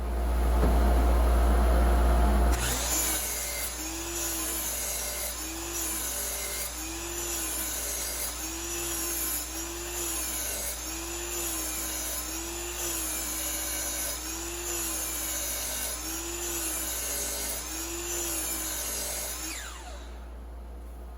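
DeWalt DWS779/780 sliding compound miter saw running and making test cuts, with a dust collector drawing through its shroud. The first couple of seconds are loudest, then the sound holds steady with a regular rise and fall about once a second. Near the end the saw stops and the dust collector's steady hum carries on.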